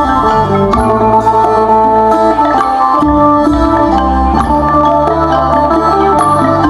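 Isan (northeast Thai) folk dance music: a plucked lute and a wooden mallet xylophone play a busy melody over a low, steady drum beat.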